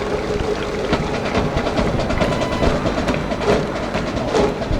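High school baseball cheering section performing a cheer: brass band and drums over massed voices, with a dense run of drum and clap hits over a held brass tone.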